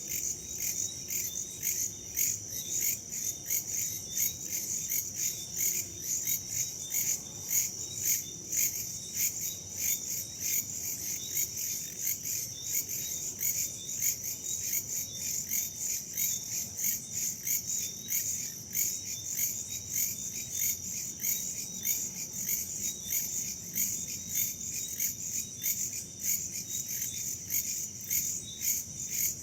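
Dense chorus of crickets and other insects, a steady, rapid high trilling, over a low rush of wind.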